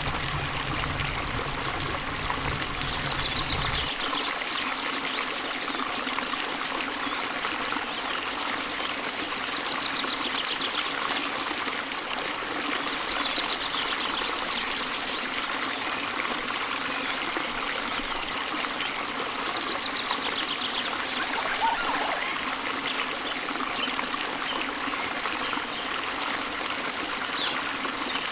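Steady rushing of running water, like a trickling stream, with faint short high trills every few seconds. A low hum underneath stops about four seconds in.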